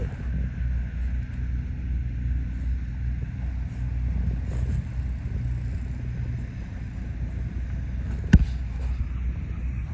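Steady low rumble of an idling vehicle engine, with a single sharp click about eight seconds in.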